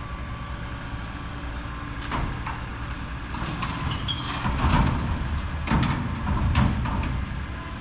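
Heil Mack LR low-rider recycling truck running steadily, with a series of clanks and bangs and a brief squeal from about two seconds in as a container is lifted.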